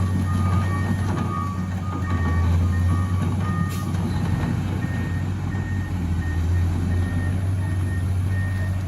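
Heavy diesel engines running steadily under repeated reversing-alarm beeps from two alarms at different pitches; the lower-pitched one stops about four seconds in while the higher one keeps beeping.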